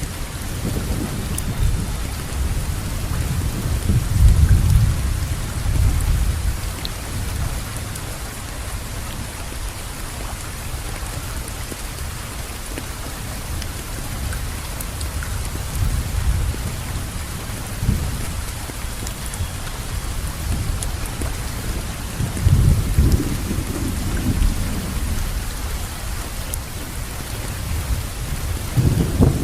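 Steady rain falling, an even hiss of drops, with low rumbles of distant thunder swelling up a few times.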